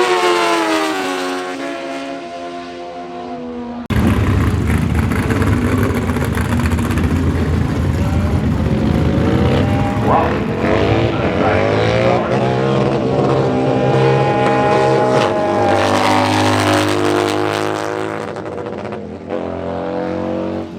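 Drag-racing motorcycle engines at high revs. One fades and drops in pitch, then a much louder engine comes in suddenly about four seconds in and revs up in rising steps as it goes through the gears.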